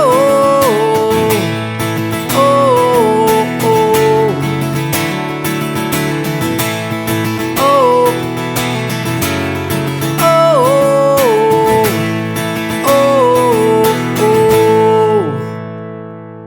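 Acoustic guitar strumming the song's outro chords, with a melody of sliding notes over the strums. The playing stops about fifteen seconds in and the last chord rings out and fades.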